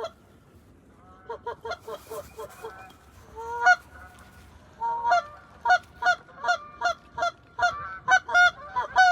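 Geese honking: after a quiet first second, a quick run of short honks, one longer drawn-out call, then steady repeated honks about two a second.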